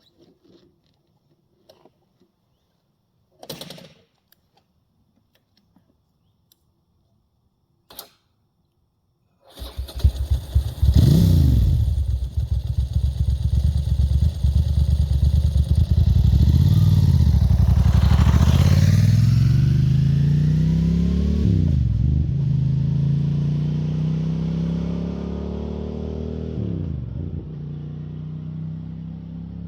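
A few faint clicks, then a 1997 Ducati Monster 900's air-cooled V-twin comes in suddenly and loud through an open Roadsitalia titanium exhaust with no dB-killer. It is accelerating: the pitch climbs and drops back several times, as at gear changes. The sound grows steadily fainter over the last ten seconds or so.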